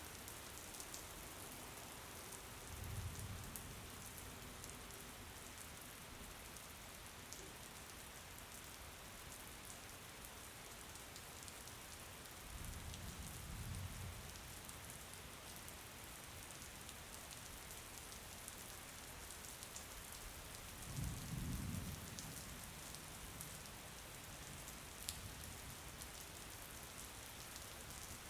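Steady rain falling: an even hiss with scattered drop ticks. It is broken three times by a brief low rumble.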